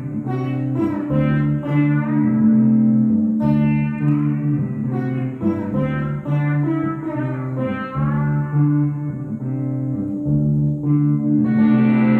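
Solo pedal steel guitar playing an instrumental passage, with melody notes sliding in pitch over a low two-note pattern that repeats about every two seconds.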